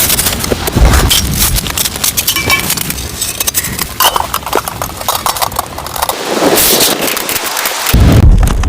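Strong wind buffeting the microphone in gusts, about a second in and again near the end, over a dense run of crunching and clicking noises.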